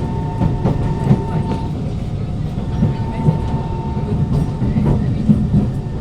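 Kawasaki Heavy Industries C151 metro train running on the track, heard from inside the carriage: a steady rumble with a few level electrical hums and scattered clicks from the wheels on the rails.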